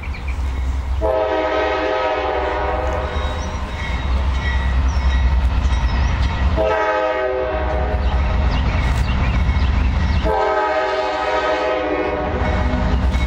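Diesel freight locomotive horn, a multi-note chord, sounding three blasts (long, short, long) over the steady low rumble of the locomotive's diesel engine as the train approaches.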